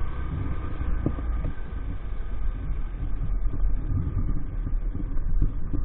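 Small 50cc motorbike engine of an EAYS Pro 50 running under a low, uneven rumble; a faint steady whine in the mix fades away about halfway through.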